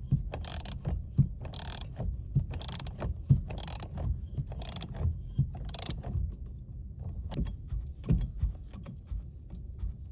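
Hand ratchet wrench being worked back and forth, with a burst of ratchet clicking on each return stroke about once a second. Near the end it gives way to scattered clicks and taps of tools on metal.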